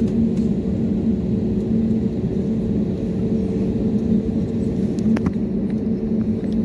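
Cabin rumble of an Airbus A320neo taxiing on its engines, a steady low drone with a constant hum, heard from inside the cabin. A couple of faint clicks come about five seconds in.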